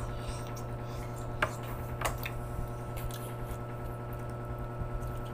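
Chewing and squishy mouth sounds of someone eating soft braised pork leg, with a couple of short clicks about a second and a half and two seconds in, over a steady low hum.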